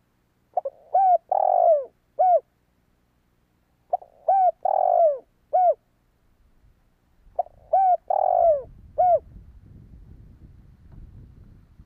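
Spotted dove cooing: three phrases about three and a half seconds apart, each a few short notes and one longer drawn-out coo before a final short note. A faint low rumble comes in near the end.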